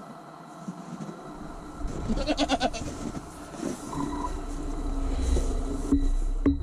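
A goat doe bleating, one wavering call about two seconds in, followed by low rumbling noise and a sharp knock near the end.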